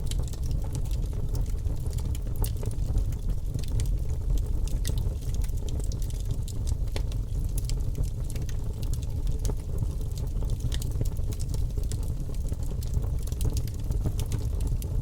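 Bonfire burning with a steady low roar and frequent small crackles and pops of burning wood.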